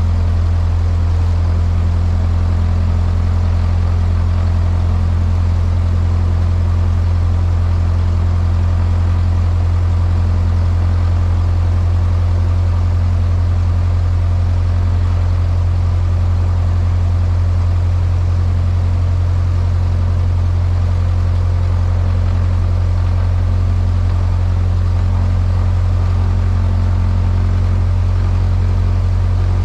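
Cessna 152's four-cylinder Lycoming piston engine and propeller running steadily in a loud, even drone, with a slight change in its note about eighteen seconds in.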